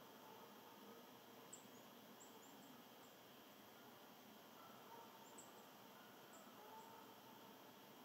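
Near silence with a soft steady hiss and a few faint, very high, thin chirps of small birds, in a cluster about a second and a half in and another around five to six seconds in.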